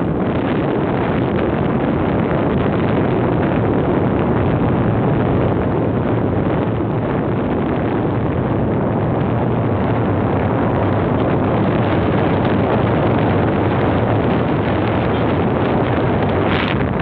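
Steady, loud rushing noise of wind buffeting the microphone over the running noise of a moving vehicle.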